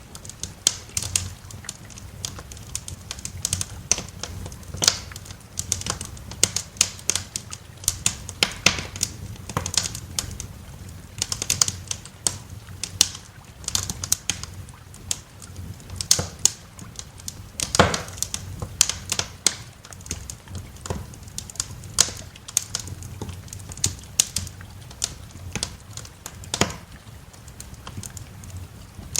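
Wood fire crackling in a fireplace, with irregular sharp pops of varying loudness, several a second, over a low steady rumble.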